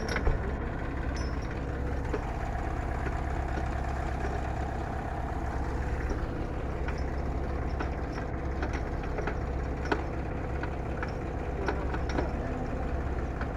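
Mahindra Yuvo 575 tractor's diesel engine idling steadily, with a few faint clicks over it.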